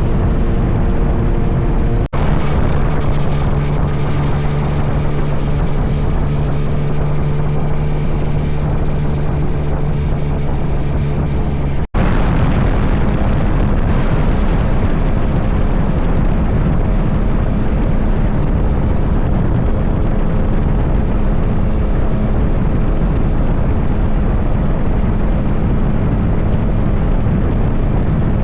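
Motorcycle cruising at steady speed, heavy wind noise blasting the microphone over the engine's steady drone. The sound cuts off abruptly and resumes about 2 seconds and 12 seconds in.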